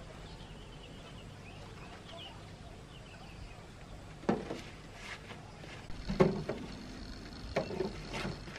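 Faint chirps, then a handful of separate knocks and thuds spaced about a second apart from the middle on, the loudest a little past six seconds in. A steady high hum sets in near the end.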